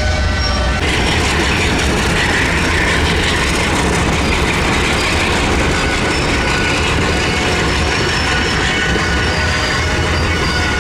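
Train moving on the rails, with a steady low rumble and wheels squealing against the rails.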